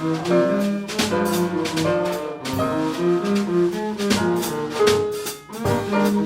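A small jazz group playing live, with walking double bass and drum kit, cymbals striking throughout, under a sustained melodic line.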